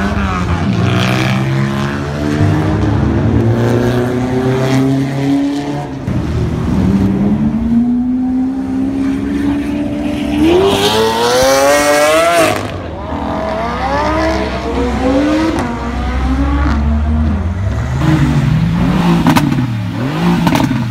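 Loud supercar engines revving and accelerating, with pitch stepping up through the gears. About ten seconds in, one engine rises steeply to a high pitch and cuts off. Near the end come quick throttle blips that rise and fall.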